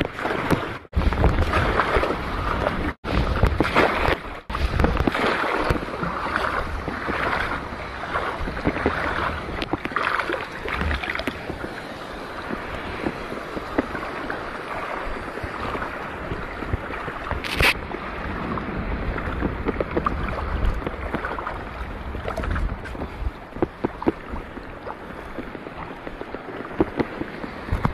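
Seawater sloshing and lapping with wind buffeting the microphone.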